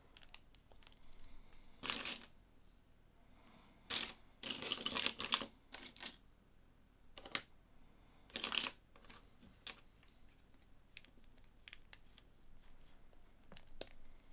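Plastic LEGO pieces handled and snapped together: scattered sharp clicks and a few short bursts of rattling, the longest about four seconds in.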